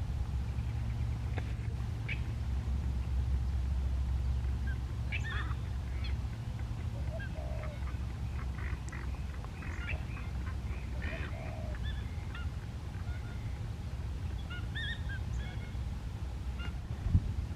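Birds calling off and on, short chirps and honk-like calls scattered through, over a steady low rumble.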